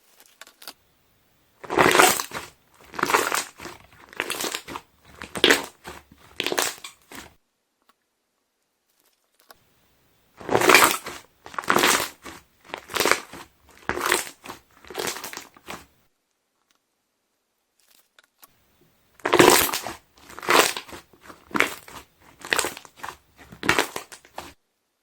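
Slime being pressed, its trapped air bubbles popping and crackling with each press. It comes in three runs of about five or six presses, roughly one a second, with short silent pauses between the runs.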